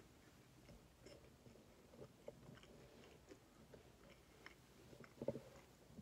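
Faint close-up chewing of crispy bacon: small wet mouth clicks and light crunches, with a louder crunch about five seconds in.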